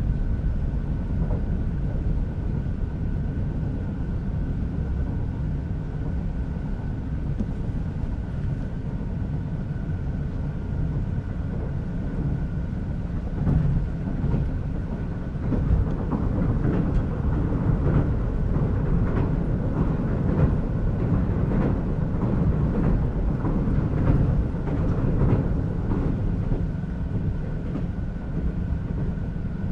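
Sleeper train running at speed, heard on board: a steady low rumble with a faint steady whine. About halfway through, the wheels start clicking over rail joints in quick runs, which go on until near the end.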